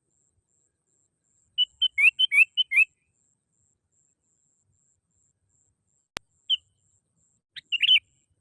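Sooty-headed bulbul (kutilang) song: a quick run of about eight bubbly, up-slurred notes, then after a pause a single note and a short closing phrase near the end. A single sharp click falls between them.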